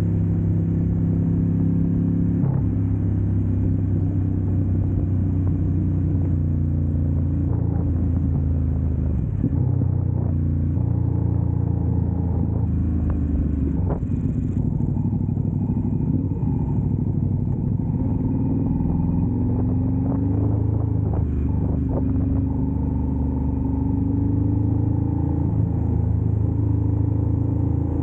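Ducati motorcycle engine running under way, heard from the rider's own bike. The engine note dips about a third of the way in, then climbs steadily later as the bike accelerates.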